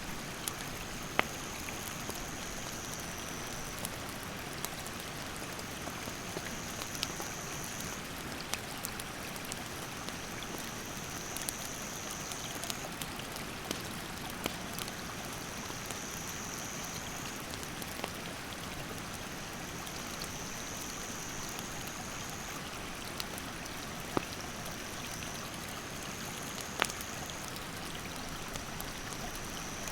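Rushing stream water as a steady hiss, with a few sharp crackles from a wood campfire. A high buzzing insect call comes and goes every few seconds, each call lasting two to three seconds.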